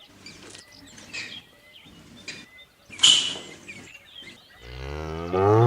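A cow mooing: one long low call that begins about a second before the end and grows loud. Before it, faint bird chirps and a short sharp rush of noise about halfway through.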